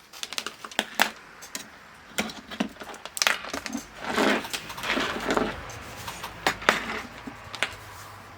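Clicks, light knocks and some scraping from hands handling the multimeter and its small hard plastic and metal parts, with a longer stretch of rubbing about four to five seconds in.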